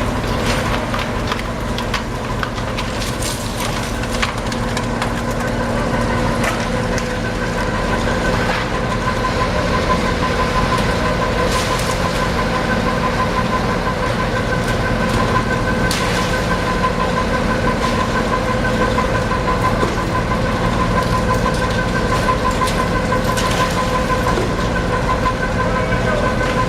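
Fish-unloading machinery running with a steady drone and a whining hum, with scattered clanks and knocks.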